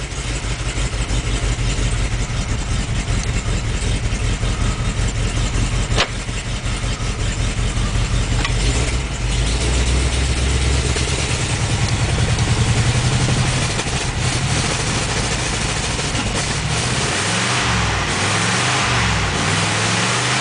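1954 Ford Mainline's 292 Y-block V8 running cold on the choke with a rapid, even beat, a bit too rich with the carburetor a little full. There is a single sharp click about six seconds in, and from about two-thirds through the engine slows to an uneven idle.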